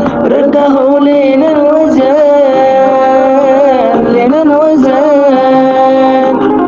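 Solo voice singing a melismatic Middle Eastern melody, holding long notes with wavering ornaments and sliding between pitches.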